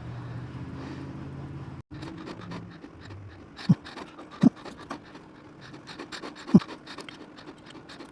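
Small clicks and light scraping from handling objects on a workbench, with three sharp taps about a second or two apart.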